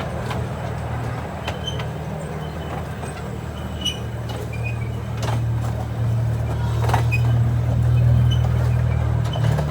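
Zoo train's engine running with a steady low drone that grows louder about six seconds in, with a few sharp clicks over it.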